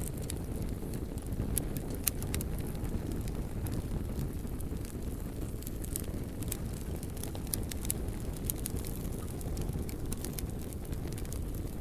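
Wood fire burning: a steady low rumble of the flames with frequent sharp crackles and pops from the burning wood.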